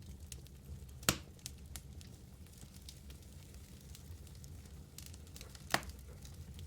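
Wood fire burning in a fireplace: a steady low rumble of flame with a scatter of small crackles, and two loud sharp pops, one about a second in and one near the end.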